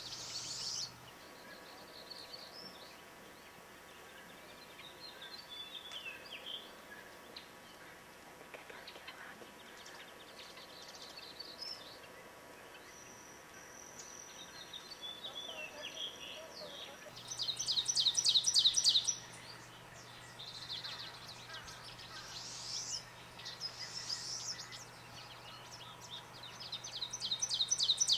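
Wild songbirds calling: scattered soft chirps and short calls, and twice a loud, fast trill of rapidly repeated high notes lasting about two seconds each, once past the middle and again near the end.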